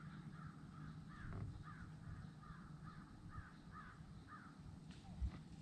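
A bird calling a quick, faint series of about nine short harsh notes, roughly two a second, then stopping. A single soft knock sounds near the end.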